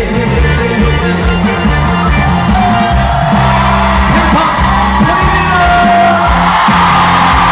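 Live trot music: a singer holding long sung notes over backing music with a steady beat. Shouts from the audience rise near the end.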